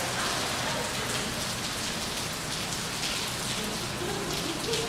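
Steady rain falling, with many small drop hits pattering on hard surfaces.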